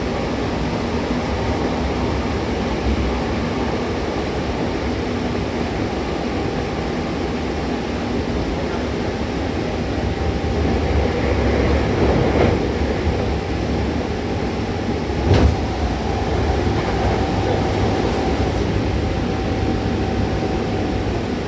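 Hankyu train running between stations, heard from inside the car: a steady rumble of wheels on rail under a faint motor whine, with two short knocks about halfway through.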